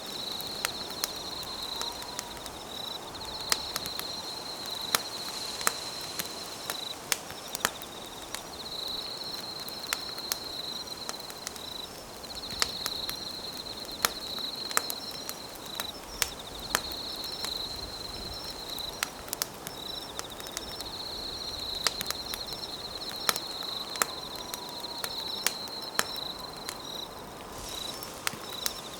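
Campfire crackling with frequent sharp pops, over a night insect trilling steadily in repeated phrases of about two seconds with short breaks.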